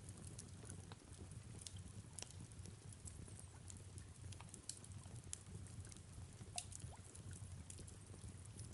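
Faint fireplace crackle, a scatter of small irregular pops and snaps, over steady soft rain.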